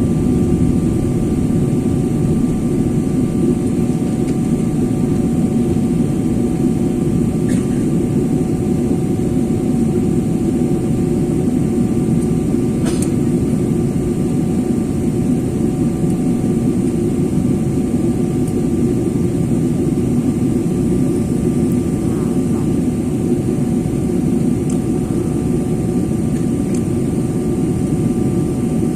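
Steady rumble of a jet airliner heard from inside the passenger cabin, engine and air noise with faint steady tones above it. It stays even throughout, with a couple of faint ticks.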